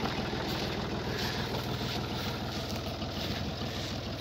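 Universal 453 tractor's three-cylinder diesel engine running at a steady speed, with an even pulsing beat.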